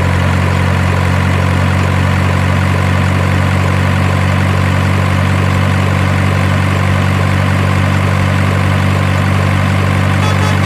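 Heavy truck diesel engine idle sound, low and perfectly steady with no change in pitch or speed. A faint rapid ticking comes in near the end.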